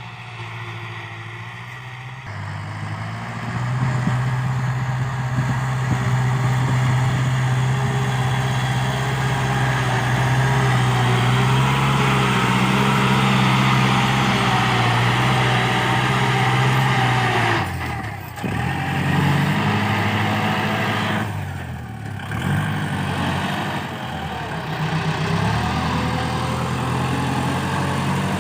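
Kubota L5018 tractor's diesel engine running under steady throttle. It picks up about three seconds in, then drops sharply twice, near 18 and 22 seconds, before coming back up.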